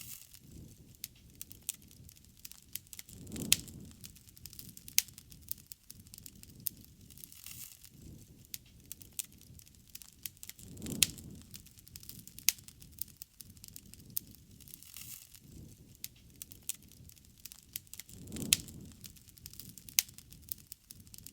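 Wood bonfire crackling, with frequent sharp pops and snaps over a low rumble of burning. The rumble swells three times, about seven seconds apart.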